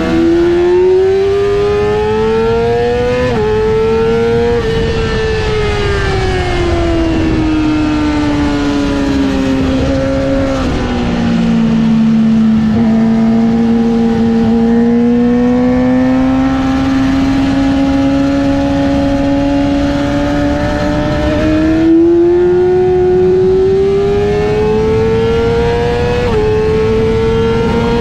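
Yamaha R6's inline-four engine running hard at high revs. Its pitch climbs and drops sharply at an upshift about three seconds in, falls away slowly, then climbs again with another sharp drop near the end, over a steady rushing noise.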